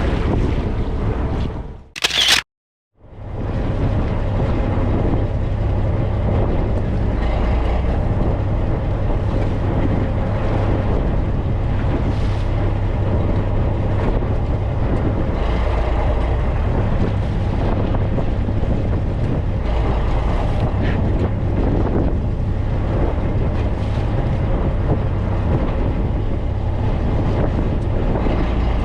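Steady running noise of a motor vehicle, with a strong low engine hum. It begins after a brief break in the sound about two seconds in.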